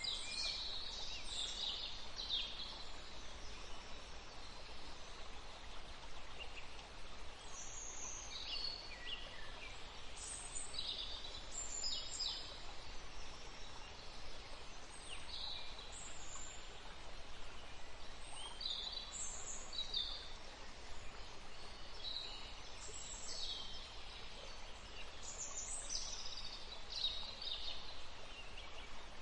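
Songbirds singing and chirping in a forest: short, quick, high-pitched chirps and trills in scattered bouts over a steady soft background hiss.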